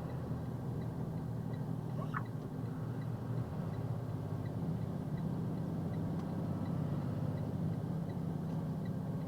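Box truck's diesel engine running under load, heard from inside the cab as a steady low drone whose note shifts about three and a half seconds in, with a faint regular tick above it. The driver says the truck is running badly after its diesel fuel gelled in the cold.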